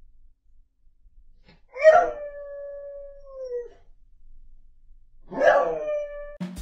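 A dog howling twice: a long howl about two seconds in that holds one pitch and sags at the end, then a shorter one about five seconds in.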